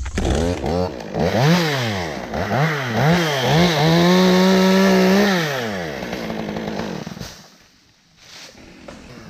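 Two-stroke chainsaw revved in several quick blips, then held at high revs for a second or so before dropping back and dying away near the end.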